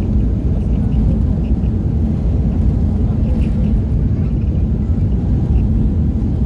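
Steady low rumble of an airliner's engines and airflow heard inside the cabin during landing, with faint light ticks about twice a second.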